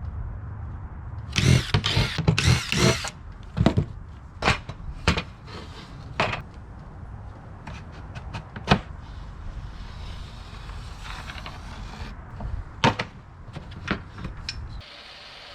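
Woodworking with a power tool on plywood: a steady low hum runs and stops abruptly near the end, with a loud rasping burst between about one and three seconds in and many sharp knocks of wood scattered through.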